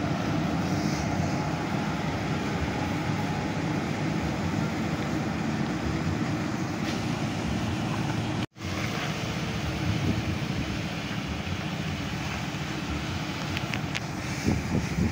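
Diesel engine of heavy road-building machinery running steadily, dropping out for an instant about halfway through.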